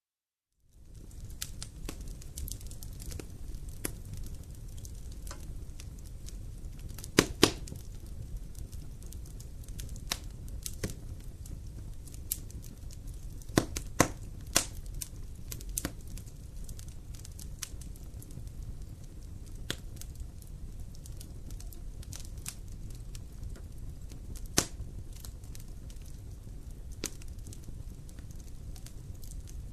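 Campfire burning: a steady low rumble of flames with scattered sharp crackles and pops, a few of them louder snaps. The sound cuts in from silence just under a second in.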